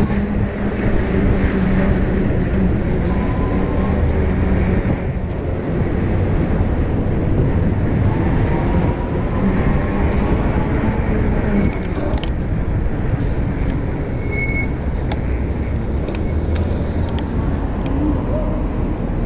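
City street traffic: cars and other motor vehicles running past in a continuous low rumble, with a few brief clicks around the middle.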